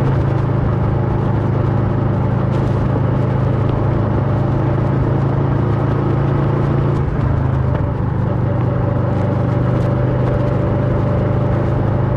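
Kawasaki Versys 650 parallel-twin engine running through a Mivv slip-on exhaust while riding, a steady engine note whose pitch drops and shifts about seven seconds in.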